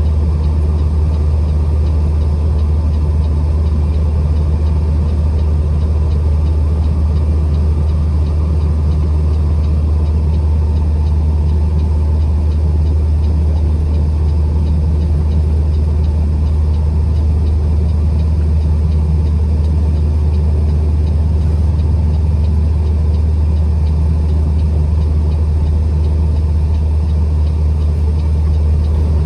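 Truck engine running with a steady, unchanging low drone.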